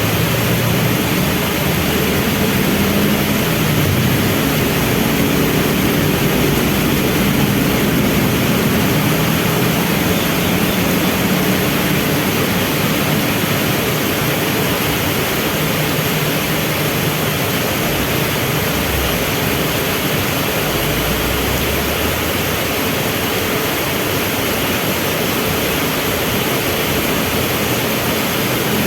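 Heavy rain falling steadily, with vehicle engines idling underneath; the engine hum is strongest in the first half and fades after about halfway.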